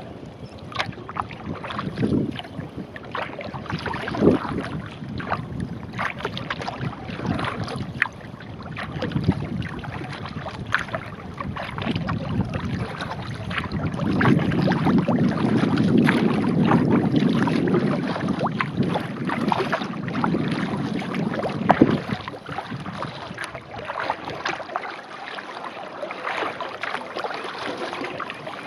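Kayak paddle strokes: the blades dipping and splashing in the water with drips between strokes. A louder low rushing noise builds in the middle for several seconds, then falls away.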